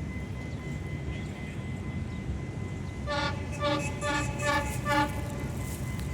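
Diesel locomotive horn giving about five short toots in quick succession, over the steady low rumble of a train.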